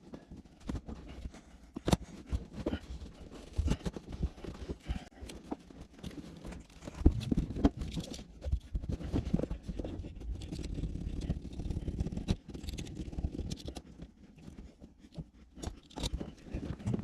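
Car carpet being pulled up and yanked out of the cabin: irregular scraping, rustling and tearing with scattered knocks.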